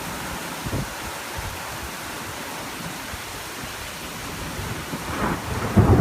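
Steady rain falling, with a low rumble of thunder building about five seconds in and loudest at the end.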